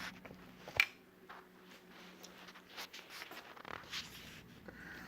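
52-inch Sahara Admore ceiling fan running on low speed, its motor giving a faint steady hum, with one sharp click about a second in and a few lighter clicks and rustles.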